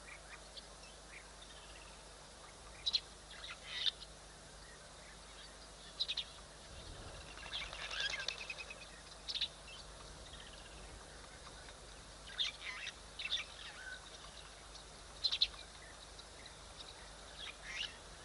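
Wild birds calling: short high chirps every second or two, with a busier run of calls about eight seconds in.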